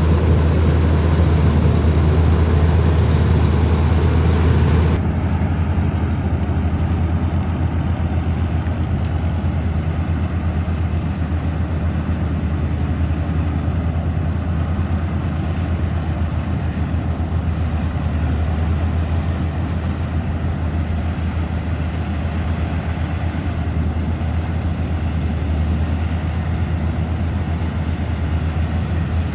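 Combine harvester running steadily, a continuous low engine drone with machinery noise. About five seconds in, the sound changes abruptly and the higher part thins out.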